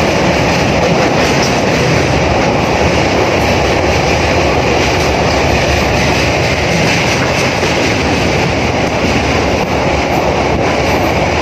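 Passenger train running over a riveted steel truss rail bridge: a loud, steady rumble of wheels on the rails and the bridge, heard through an open carriage window.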